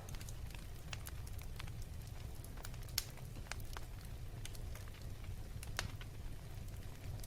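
Fire burning steadily with a low rumble and scattered sharp wood crackles and pops, the loudest pop about three seconds in and another near six seconds.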